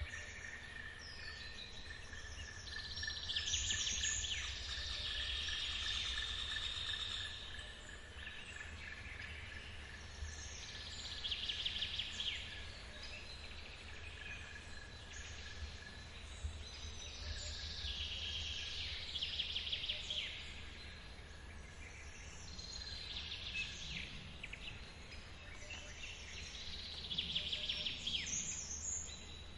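Forest ambience by a waterfall: a songbird sings five rapid, trilling phrases every few seconds over the steady low rush of falling water, with a thin, steady insect buzz that fades about halfway through.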